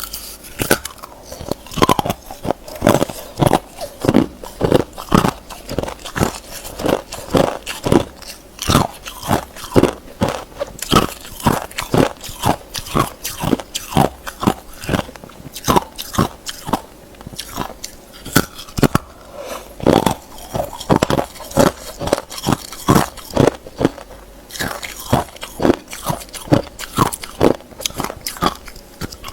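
Hard ice being bitten and chewed up close: a steady run of sharp, loud crunches, one or two a second.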